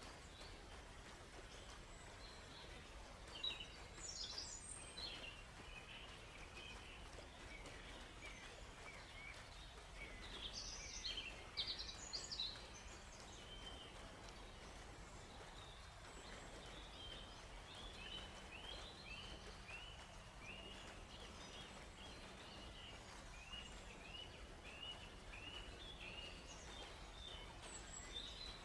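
Songbirds singing over a faint steady hiss of forest ambience: quick bursts of chirps a few seconds in and again around the middle, then a steady run of short repeated chirps, about one and a half a second, through the second half.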